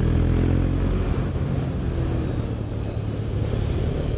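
KTM Duke single-cylinder motorcycle engine heard from the rider's helmet microphone with wind rush: the engine note falls in pitch over the first second as the bike slows on a steep descent, then runs steadily.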